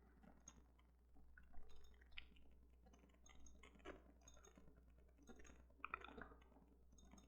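Near silence with a few faint, irregular clicks from a computer mouse and keyboard.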